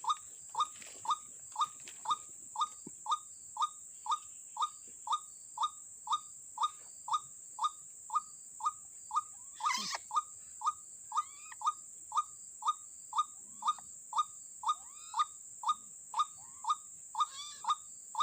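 White-breasted waterhen (ruak-ruak) call, a short note repeated evenly about twice a second without a break, over a steady high-pitched whine. A single louder scuffle cuts in about ten seconds in.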